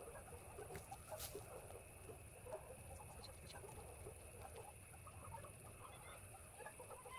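Faint outdoor ambience: many soft, scattered chirps and clicks over a steady high-pitched hiss and a low rumble.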